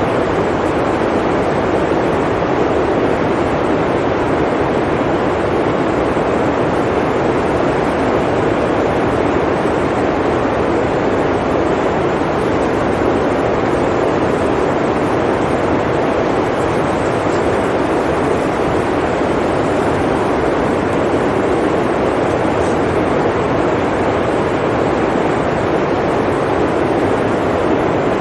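Blizzard wind blowing steadily: an even, unbroken rushing noise, strongest in the low-middle range, with no gusts or breaks.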